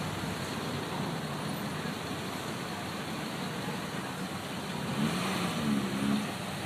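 Car engine running with steady road and traffic noise; a brief pitched sound rises over it about five seconds in.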